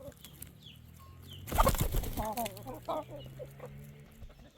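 Chickens clucking, with a short burst of wing flapping about one and a half seconds in and wavering calls just after it.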